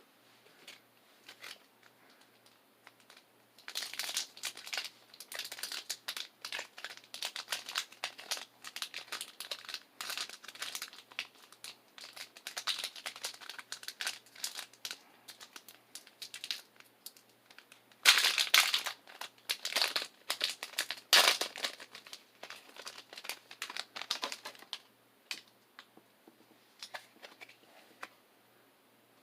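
Foil Pokémon booster pack wrapper crinkling as it is handled and torn open: a long run of crackly rustles, loudest about two-thirds of the way through, starting and stopping in quiet.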